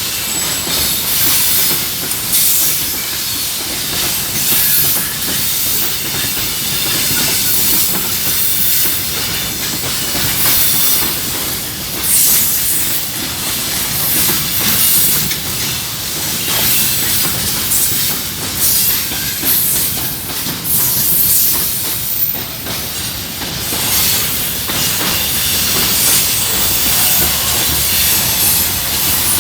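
Freight train's wagons rolling past: a steady, loud rushing hiss of wheels on rail, with irregular clacks throughout.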